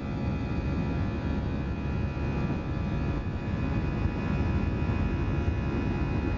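Airbus A319 jet engines and airflow heard from inside the passenger cabin: a steady dense rush with several steady whining tones above it, getting slightly louder about four seconds in.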